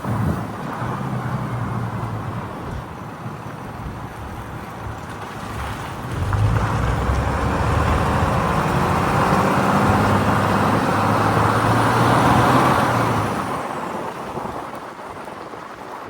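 A vehicle's engine running with noise around it; it grows louder about six seconds in, holds for several seconds, then fades away near the end.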